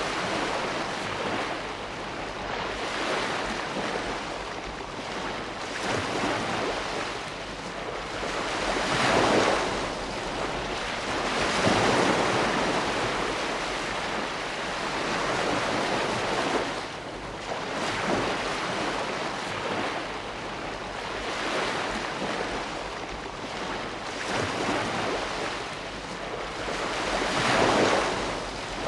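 Ocean waves breaking and washing onto a shore, a steady rushing surf that swells and falls as each wave comes in, with stronger breakers about nine, twelve and twenty-eight seconds in.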